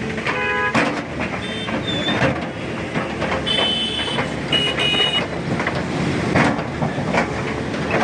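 Road traffic with vehicle horns: a short horn toot about half a second in, then several higher-pitched beeps around two, four and five seconds, over a steady noise of traffic.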